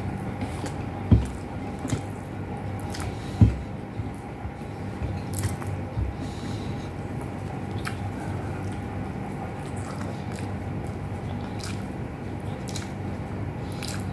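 Close-miked chewing and wet mouth smacking as a person eats rice and beef with eggplant with her fingers, many small clicks throughout. Two low thumps stand out, about a second and three and a half seconds in, over a steady low hum.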